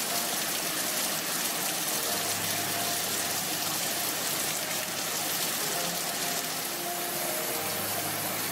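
Heavy monsoon rain pouring down on palm fronds and garden foliage, a dense steady hiss, with soft background music notes underneath.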